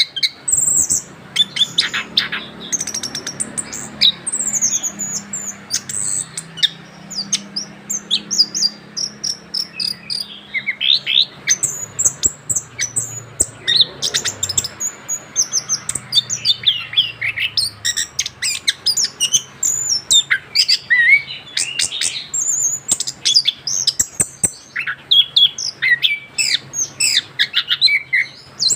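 Young male orange-headed thrush singing a long, continuous rolling song of rapid, varied high whistles, trills and chattering notes with hardly a break, in full song just after its molt.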